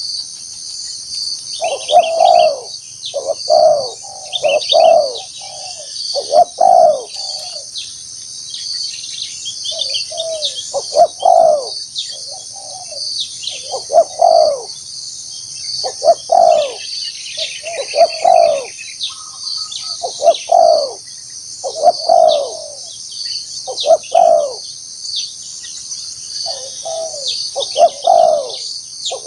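Spotted doves cooing over and over, a phrase of a few low coos about every two seconds. This is the calling of a decoy bird used to lure wild doves. Under it runs a steady, high, pulsing drone of insects.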